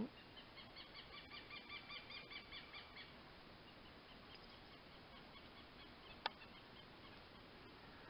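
A bird chirping faintly in a rapid run of about a dozen short notes, about five a second, tailing off into fainter repeats. A single sharp click sounds near the end.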